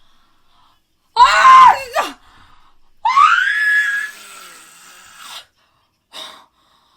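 A young woman screaming in frustration: a short scream about a second in, then a longer wailing scream that rises in pitch and trails off, and a brief cry near the end.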